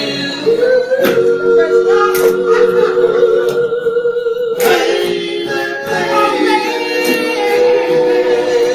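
Men's a cappella soul vocal group singing held harmony chords without words, a high voice sustaining one long note over the lower backing voices; the chord shifts about a second in and again around the middle.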